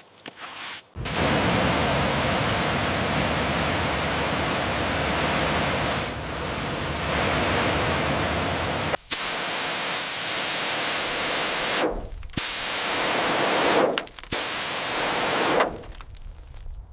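Pressure washer spraying in a loud, steady hiss. It starts about a second in, cuts off briefly just after nine seconds, breaks twice more, and stops shortly before the end.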